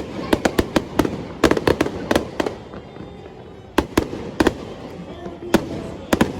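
Aerial fireworks going off in a display. A rapid string of sharp bangs comes in the first couple of seconds, then a short lull, then a few single bangs further apart.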